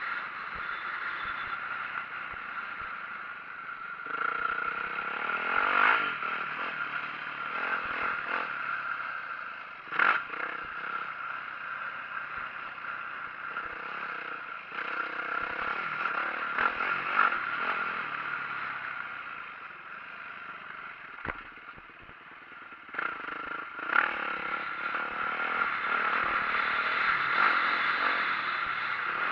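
2004 Yamaha YZ450F four-stroke single-cylinder dirt bike engine being ridden, revving up and easing off several times. Sharp knocks and clatter from the bike are heard about ten seconds in and again a little past twenty seconds.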